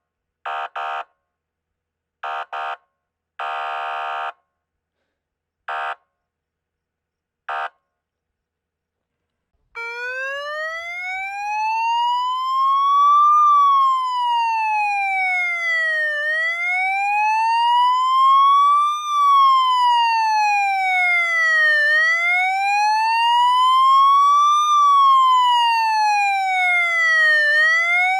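Police car siren: about five short, buzzy horn blasts at uneven gaps, then about ten seconds in the electronic wail starts, its pitch rising and falling slowly about every five and a half seconds.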